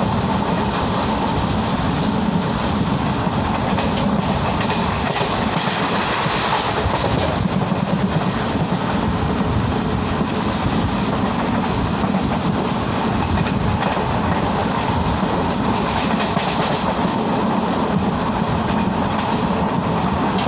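Passenger train running along the track, a steady loud rush of wheel and rail noise heard from inside the carriage at the window.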